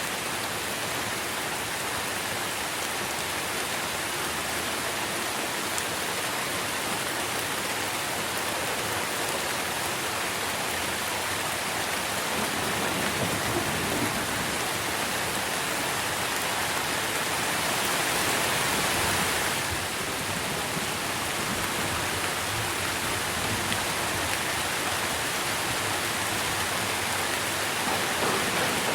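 Steady heavy rain falling on tree leaves, a dense even hiss, swelling briefly louder about two-thirds of the way through.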